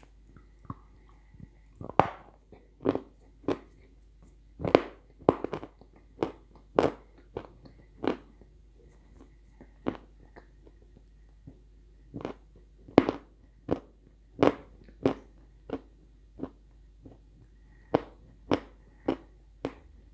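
A person biting and chewing hard, dry chunks of edible clay. Sharp, crisp crunches come irregularly, about one or two a second, with short quiet gaps between them.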